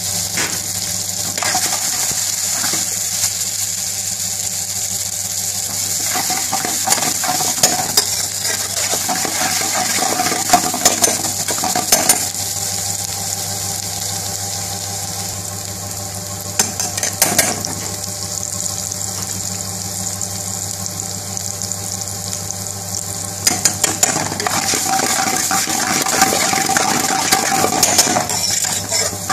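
Sliced onions, garlic and green chilies sizzling in hot oil in a wok. A long steel spoon stirs them, scraping and clinking against the pan in short clusters several times.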